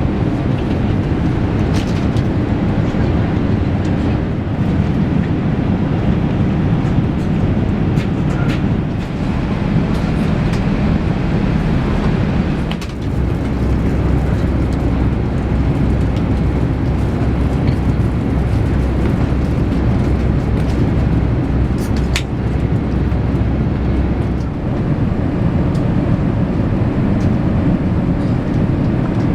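Steady rumble of a moving vehicle heard from inside, with a few sharp clicks. A deeper low hum sets in about halfway through and fades a few seconds before the end.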